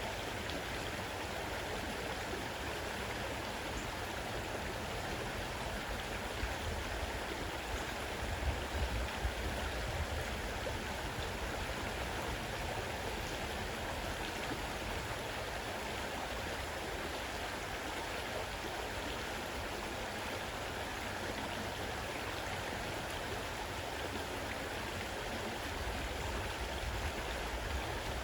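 Fast-running river: a steady rush of water, with a few low rumbles about eight seconds in and again near the end.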